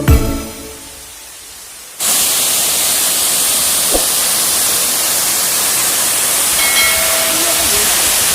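A waterfall's steady rushing hiss, cutting in abruptly about two seconds in, after music fades out.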